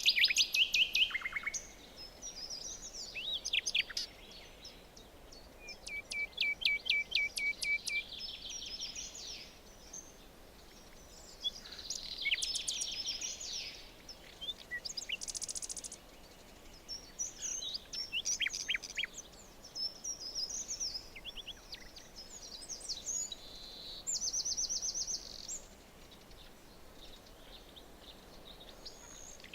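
Several songbirds singing in a forest: rapid trills and clicking runs alternating with short chirps and down-sweeping whistles, over a faint steady background hiss.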